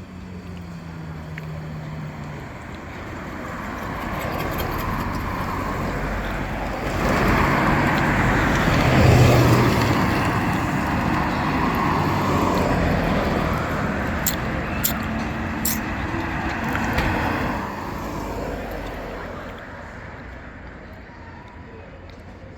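A motor vehicle passes close by on the road, its sound swelling to a peak about nine seconds in and then fading away, with a few sharp clicks near the middle.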